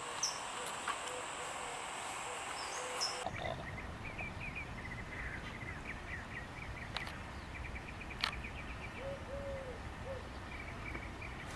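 Small birds chirping faintly and repeatedly over outdoor background noise. A steady high whine and a low pulsing tone in the first three seconds stop abruptly, and a brief low call comes near the end.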